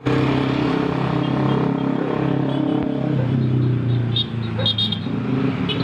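Motorcycle engine running steadily, easing off a little past halfway. A few short, high chirps sound near the end.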